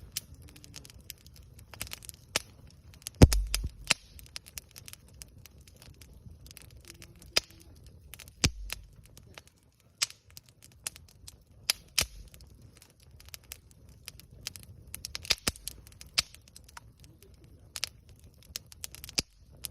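Wood campfire crackling, with irregular sharp pops and snaps over a low steady hiss of burning. The loudest pop comes about three seconds in, with a dull thump under it.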